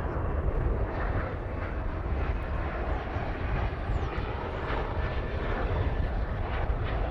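Jet airliner's engines running as it passes, a steady rushing noise with a heavy low rumble and a faint whine in the middle.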